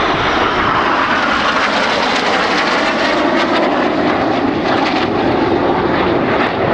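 Jet noise of BAE Systems Hawk T1 jets, each powered by a single Adour turbofan, flying a display pass. The noise is loud and steady, and its pitch slowly falls as they go by.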